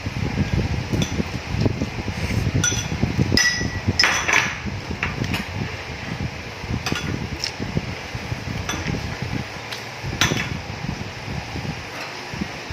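Cutlery and dishes clinking during a meal: scattered sharp taps and clinks, a few of them ringing briefly, about a dozen over the stretch, over low handling noise.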